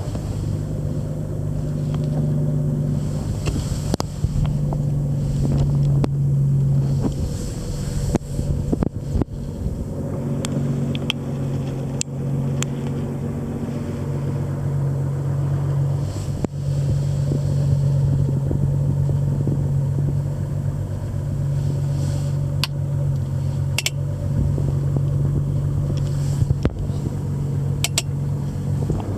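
1961 Jaguar Mk 2's XK straight-six engine idling steadily as it warms up after a cold start, its pitch wavering slightly, with a few sharp clicks over the top.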